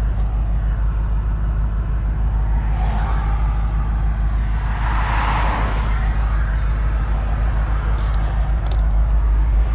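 BMW E93 M3's V8 idling at a standstill, a steady low rumble heard from inside the car. Another vehicle passes by outside, swelling and fading away around the middle.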